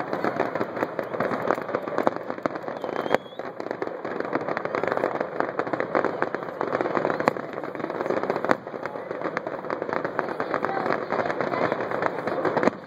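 Fireworks going off: a dense, continuous crackling with a few sharper bangs standing out, about three, seven and eight and a half seconds in.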